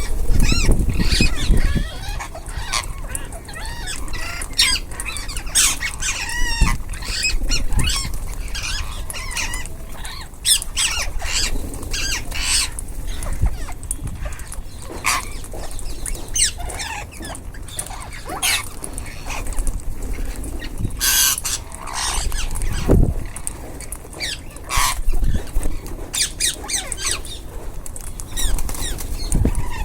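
A group of ringneck parakeets calling, with frequent short, sharp squawks and chattering chirps overlapping throughout.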